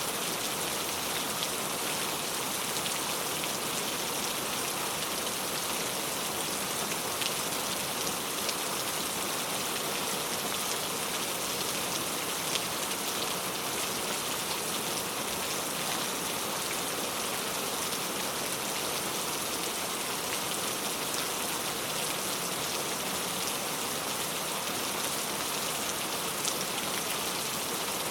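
Heavy rain falling steadily: a dense, even hiss of drops with a few sharper drop ticks standing out.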